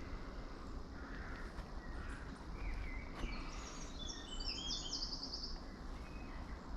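A small bird singing: a run of short high chirps that ends in a quick trill, about halfway through. Under it is a steady low rumble of wind on the microphone.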